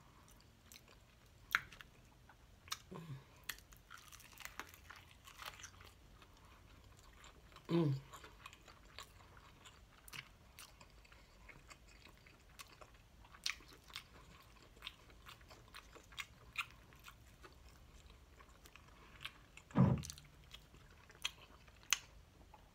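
Close-miked chewing and biting of crispy fried chicken, with scattered crunches and wet mouth clicks and smacks. Two short low vocal sounds come from the eater, about eight seconds in and again near twenty seconds.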